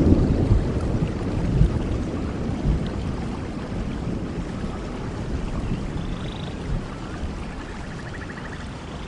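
Thunder rumbling low and slowly dying away over steady rainfall.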